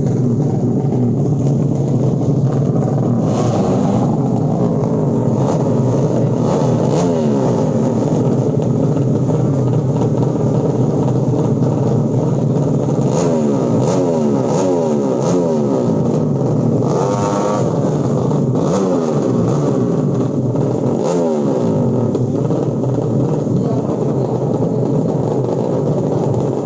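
Drag-racing underbone motorcycles with 200 cc 'sleep engine' builds, engines revving, their pitch climbing again and again in a run of rising sweeps.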